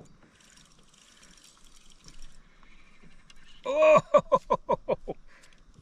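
A man's loud "Oh!" about three and a half seconds in, running straight into a burst of laughter, about seven quick "ha" pulses.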